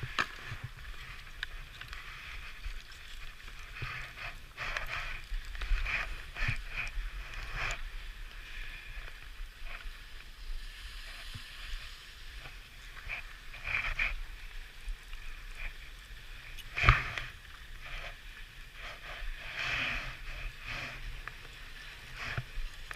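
Skis carving and scraping over packed snow: a continuous hiss that swells into louder scrapes on each turn, the strongest about 17 seconds in. Under it runs a low rumble of wind on the helmet camera's microphone.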